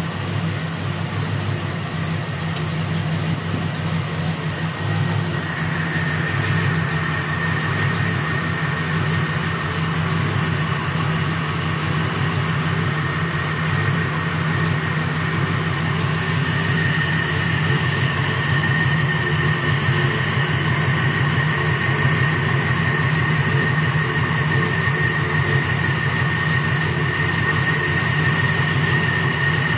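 1968 Chevrolet Camaro engine idling steadily. A steady high-pitched whine joins about five seconds in and grows stronger later.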